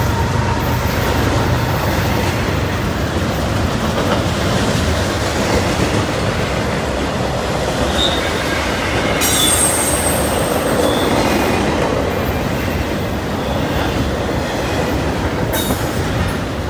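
Double-stack intermodal freight train's well cars rolling past at trackside: a steady, loud rumble of steel wheels on rail. Short high wheel squeals come in about halfway through and again near the end.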